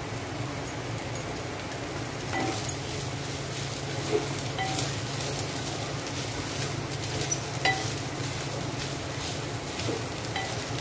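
Bitter gourd, onion and freshly added grated coconut sizzling in a pot on a gas flame while a wooden spatula stirs them, with a few light knocks of the spatula against the pot.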